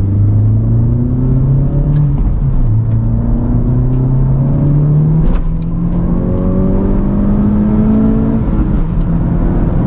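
Honda Civic Type R's turbocharged K20C1 four-cylinder, heard from inside the cabin in normal mode under hard acceleration. The engine note climbs steadily through each gear, dropping back at three upshifts roughly three seconds apart.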